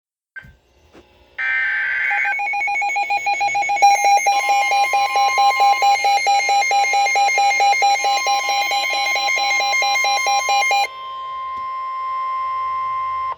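NOAA Weather Radio warning alert: a short burst of data tones, then a fast-pulsing alarm over the steady 1050 Hz warning alarm tone. The pulsing stops about 11 seconds in, and the steady tone carries on alone. The alert signals that a severe thunderstorm warning follows.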